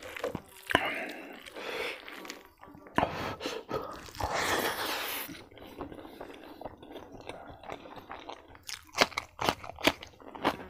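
Close-miked eating sounds: a person chewing and crunching mouthfuls of food, including raw vegetables, with repeated sharp crunches and a louder stretch of chewing around the middle.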